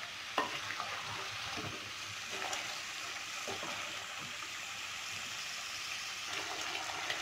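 Chicken and apple gourd pieces sizzling in oil in a metal pot, with a wooden spatula scraping and knocking against the pan a few times in the first half. The steady sizzle carries on after the stirring stops.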